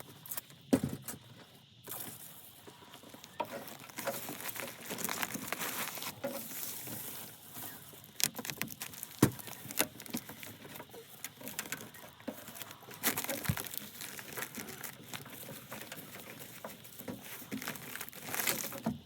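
Plastic crinkling and rustling with scattered sharp taps and clicks, from insulated ductwork and its outer jacket being handled and fitted over a taped duct connection.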